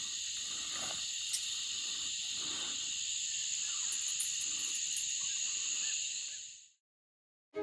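Steady evening insect chorus, a dense, shrill, continuous hum typical of crickets, with a couple of faint clicks. It fades out about six and a half seconds in.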